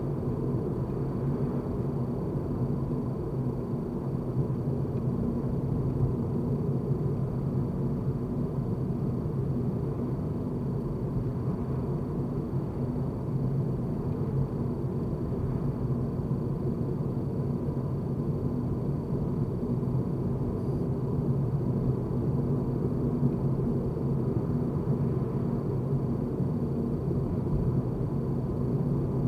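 Steady low rumble of a car being driven, road and engine noise running evenly with no change in pace.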